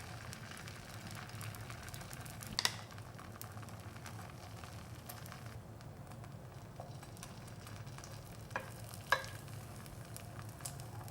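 Beaten egg and chopped vegetable mixture frying gently in a lightly oiled pan over medium-low heat, a faint steady sizzle. A few light clicks come through it, once about three seconds in and twice near the end.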